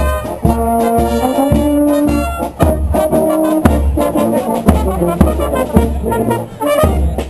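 Marching brass band playing a tune: held brass chords that change pitch, over a steady bass drum beat about twice a second.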